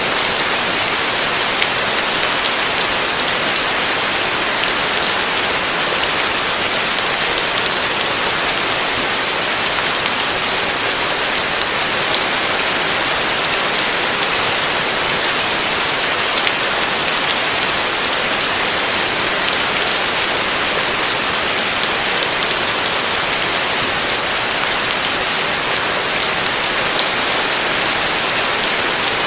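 Heavy rain falling steadily on a roof, a dense even hiss with fine patter of individual drops.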